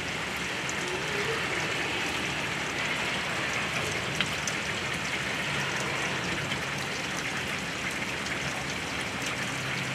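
Steady rain pouring down, an even hiss with a few single drops ticking close by.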